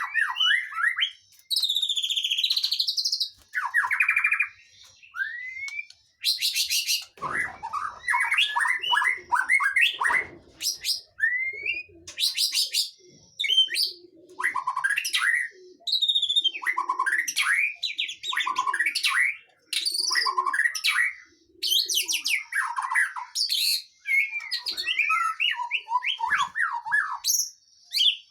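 Birdsong played as a pancingan lure recording, meant to stir a caged songbird that sings little into singing: a fast, varied run of chirps, trills, whistled glides and buzzy rattles with short pauses between phrases.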